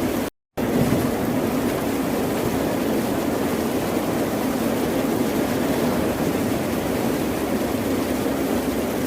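Ocean surf: a steady, even rush of waves with no single breaker standing out. Shortly after the start it cuts to silence for about a quarter of a second and then resumes, like an edit splice.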